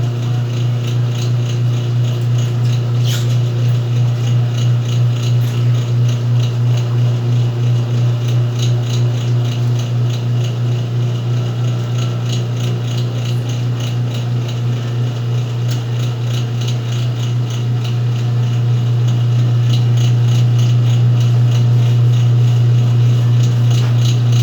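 Whirlpool washing machine running, a steady low motor hum with light rattling and a slight pulsing about twice a second; it gets louder about three-quarters of the way through.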